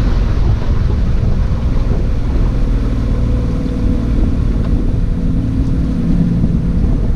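Boat motor running steadily while under way, with wind buffeting the microphone.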